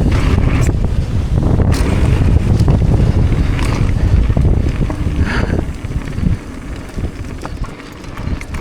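Strong wind buffeting the microphone of a riding mountain bike's camera, mixed with tyre rumble and clicking rattles from the bike on a descent. The rumble drops off sharply about six seconds in as the bike slows.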